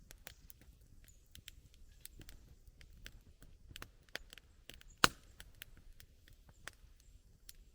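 Wood campfire crackling, with irregular sharp snaps and one loud pop about five seconds in.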